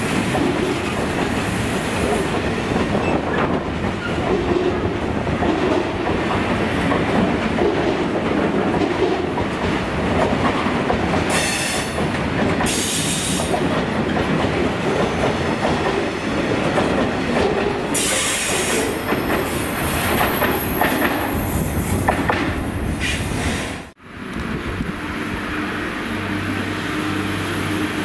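Steel-coil freight wagons rolling past, their wheels clattering over the rails with bursts of high wheel squeal. Near the end the sound cuts and a passenger train is heard arriving with a steady low engine hum.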